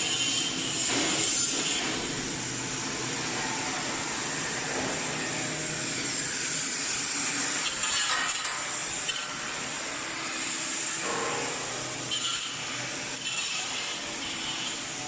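Hot-air mesh-belt drying tunnel running, a steady noise of its fans and conveyor, with a few short knocks.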